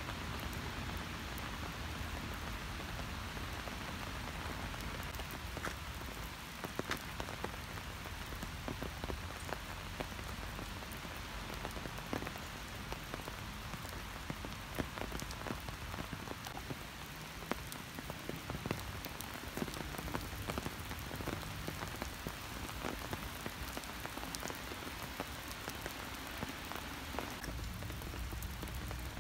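Steady rain falling, with many separate drops ticking sharply close by over a constant hiss of rain.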